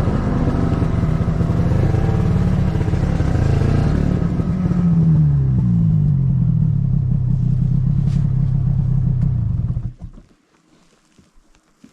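Snowmobile engine running loud and steady, its pitch falling about halfway through as it slows, then shut off about ten seconds in.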